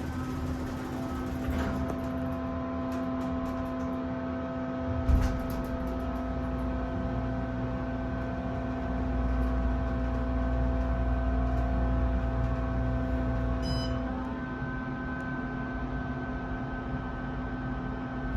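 Otis hydraulic elevator car travelling up one floor, a steady hum from the cab fan throughout. A thump about five seconds in, then a low rumble that dies away about fourteen seconds in as the car comes to a stop.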